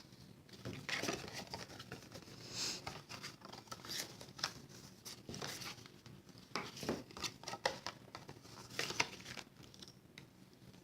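Cardstock being handled and worked on a craft table: irregular rustling and creasing of stiff paper with light clicks and taps.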